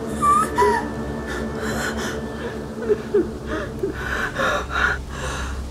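A voice gasping and breathing hard, with a few short high vocal cries, over a low steady hum.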